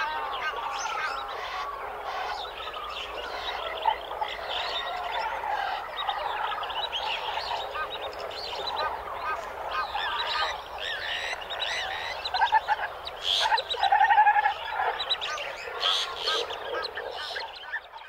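Dense morning chorus of many African jungle birds calling, trilling and chirping over one another, with louder calls in the second half. The chorus fades out at the very end.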